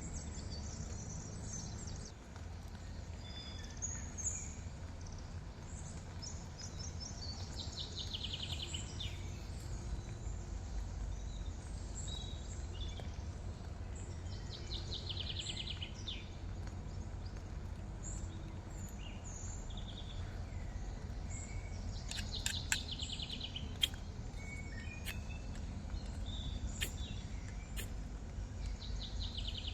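Woodland birds singing: scattered high chirps, with a quick falling trill repeated about every seven seconds, over a steady low outdoor rumble. A few sharp clicks sound a little after two-thirds of the way through.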